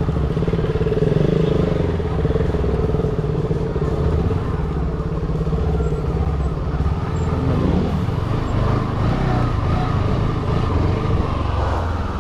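Motorcycle engine running steadily at low speed as the bike rolls slowly over gravel, heard from the rider's seat.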